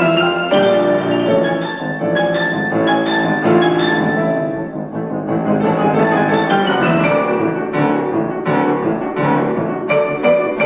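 Piano playing a classical piece, many notes struck in quick succession with steady sustained chords underneath.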